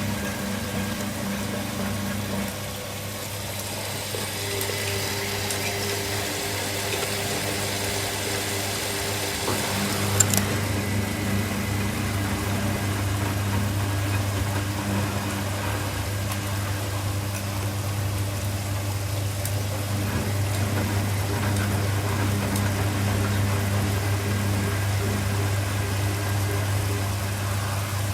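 Washing machines running with a steady low hum. A hiss is heard from about four to ten seconds in, and a single sharp click about ten seconds in.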